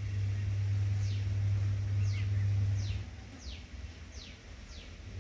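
A bird gives a series of short, thin, high chirps, each falling in pitch, about five or six spaced under a second apart. Under them is a steady low hum, which stops about three seconds in.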